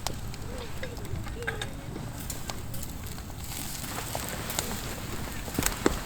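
Wood campfire crackling, with irregular sharp pops over a steady hiss, and faint distant voices in the background.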